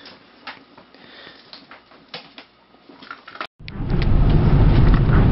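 Faint rustling and clicks, then after an abrupt cut about three and a half seconds in, the steady low rumble of a car driving, heard from inside the car.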